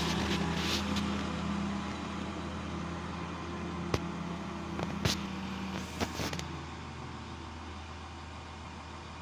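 Regional passenger multiple-unit train rolling slowly along the platform, its running hum fading as it slows, with a few sharp knocks around the middle.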